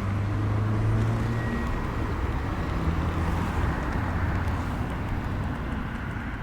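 Outdoor background noise with a vehicle engine's low steady hum.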